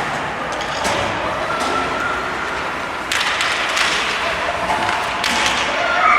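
Ice hockey play in an arena: three sharp knocks of puck and sticks against the boards, about a second in, three seconds in and five seconds in, over a steady din of rink and crowd noise.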